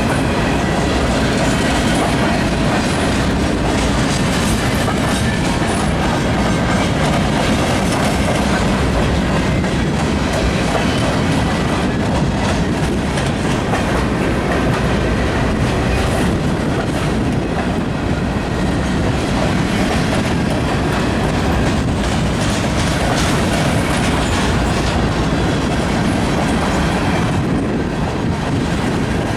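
Freight train rolling past close by, its wheels clacking over the rail joints in a steady, unbroken stream of noise.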